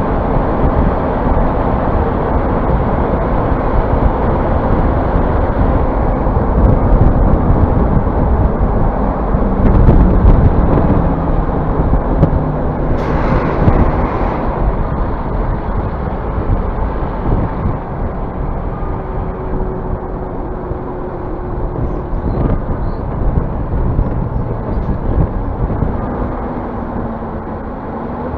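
Scania city bus running: steady engine and road noise that swells around ten seconds in, with a short burst of hiss about thirteen seconds in.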